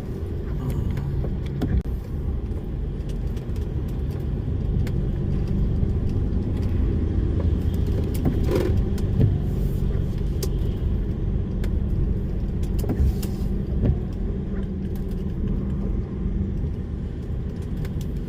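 DAF lorry's diesel engine running steadily on the move, with a low hum and road rumble and occasional short knocks.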